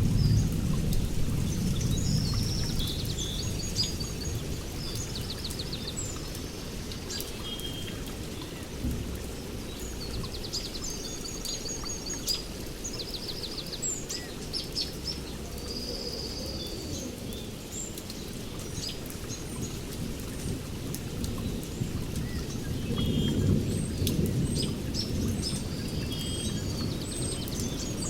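Steady rain with thunder: a deep rumble fades out over the first few seconds and another rolls in near the end. Birds call over it throughout with short chirps and quick trills.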